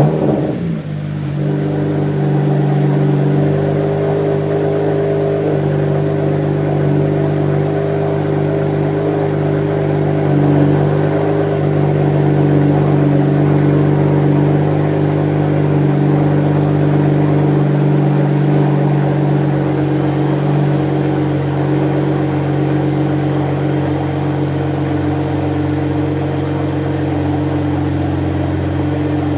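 BMW 335i (E92) 3.0-litre turbocharged inline-six idling steadily through a muffler-delete exhaust, settling from its start-up flare in the first second or so.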